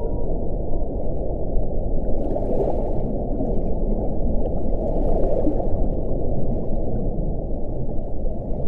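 Wind blowing steadily with a deep rumbling hiss, swelling into gusts about two and a half seconds in and again about five seconds in.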